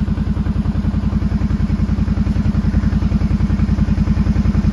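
Kawasaki Brute Force ATV engine running steadily at idle, with an even, fast low pulse.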